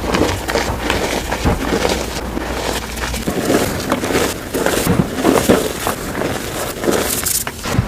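Gym chalk being crushed and crumbled, a dense run of crisp crunches with several louder ones in the second half.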